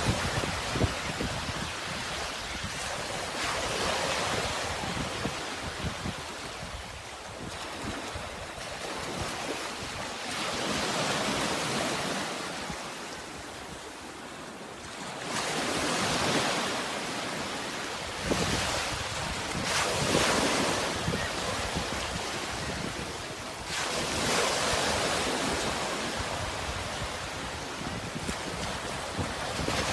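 Sea waves breaking and washing ashore in slow swells every few seconds, with wind noise.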